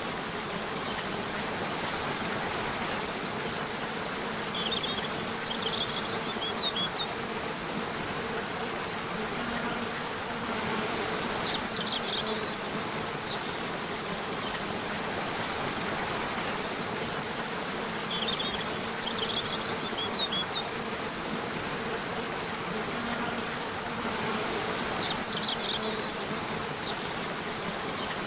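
Nature ambience of insects buzzing steadily, with short bursts of high chirping about every six or seven seconds over a steady background hiss.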